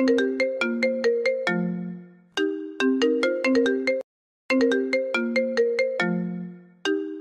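iPhone ringtone playing on loop: a repeating melody of quick, sharply struck notes, each phrase opening on a longer low note. The sound cuts out completely for about half a second, about four seconds in, then the melody resumes.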